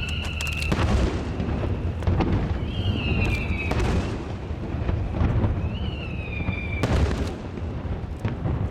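Aerial fireworks display: aerial shells bursting in a continuous rolling boom with sharp bangs and crackles. Three high whistles about a second long, each swooping up and then sliding slowly down, sound near the start, about three seconds in and about six seconds in.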